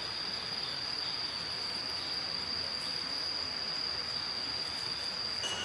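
An insect, likely a cricket, trilling on one steady high pitch over a constant soft hiss of forest ambience. Near the end the trill cuts off abruptly and a lower steady insect tone takes over.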